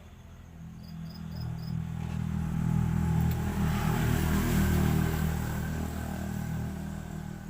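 A motor vehicle's engine passing by, growing louder over the first few seconds, loudest in the middle and fading away toward the end.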